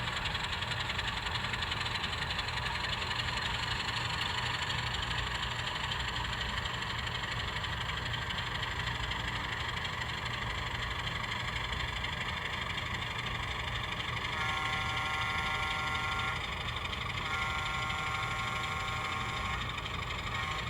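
Sound-equipped model diesel locomotive: the speaker plays a steady diesel engine rumble, with two long horn blasts, a chord of several notes, starting about two-thirds of the way in and a third blast beginning at the end.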